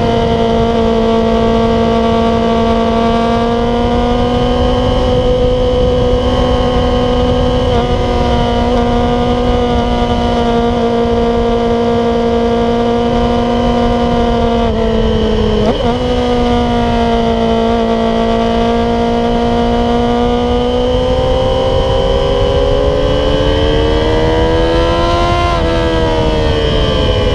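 Yamaha YZF-R6 inline-four sport bike engine running at steady high revs through an aftermarket exhaust, with heavy wind rush on the microphone. The engine pitch dips briefly and recovers about halfway through, then climbs for several seconds and drops sharply near the end.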